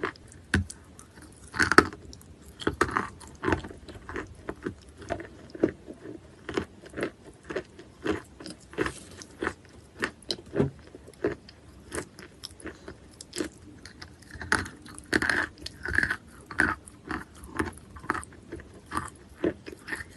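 Close-up biting and chewing of wet natural chalk: a steady run of short, irregular crunches.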